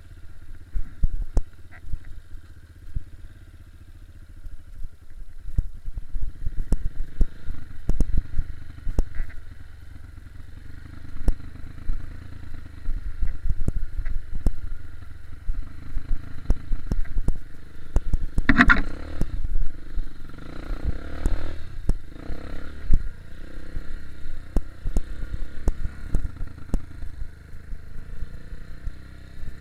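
Four-stroke enduro dirt bike engine running at low revs along a rough trail, with frequent clatter and knocks from the bike and stones.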